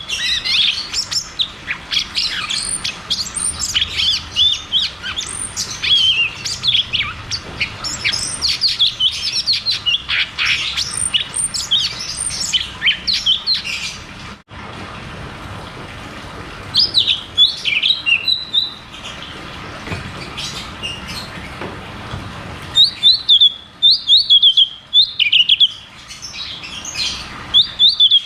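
Cucak cungkok songbird singing a rapid, dense string of high chirps and trills. After an abrupt break about halfway through, the song turns sparser, then returns as a fast burst of repeated high notes near the end.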